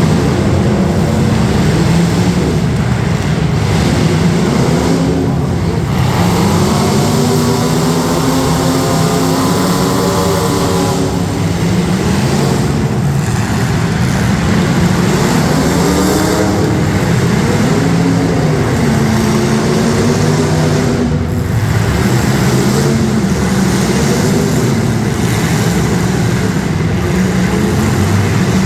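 Demolition derby street stock cars' engines running and revving, their pitch rising and falling over and over.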